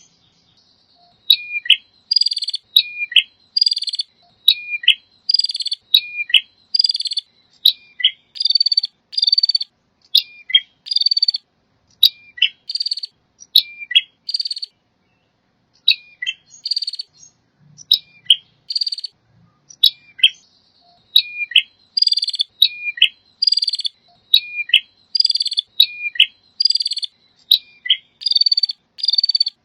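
Male prinia (prenjak) singing: short phrases repeated over and over, each a quick falling note followed by a harsh buzzy note, with a brief pause about halfway through.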